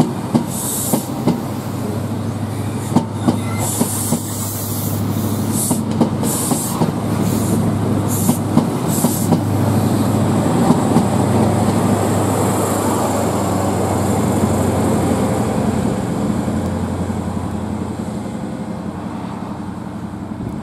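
LNER Class 43 HST running through the station. The coach wheels click over rail joints for the first half, then a steady low diesel drone swells and fades away as the train draws off.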